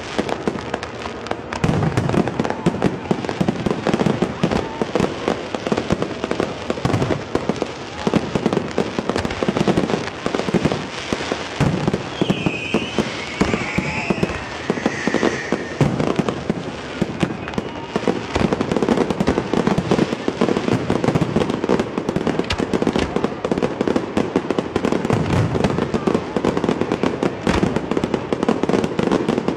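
Fireworks display: a dense, continuous barrage of bangs and crackles, one burst after another.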